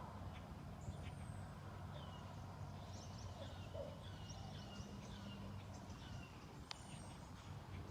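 Faint bird chirps, a series of short quick notes, over a low steady hum.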